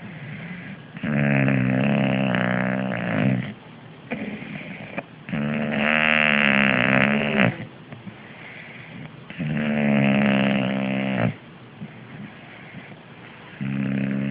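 English bulldog snoring: three long snores, each about two seconds and about four seconds apart, with softer breaths between them and a fourth snore starting near the end.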